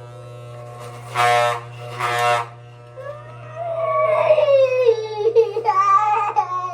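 A young boy crying during a haircut: two short loud cries, then a long wavering wail that falls in pitch, the loudest part. Under it runs the steady hum of electric hair clippers.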